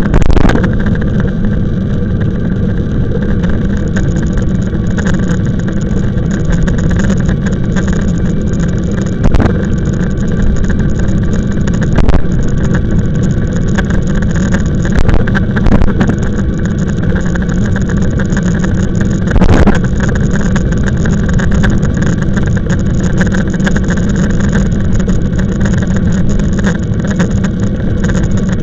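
Steady rush of wind and road noise on the camera as an e-bike rides along, with a few brief knocks from bumps.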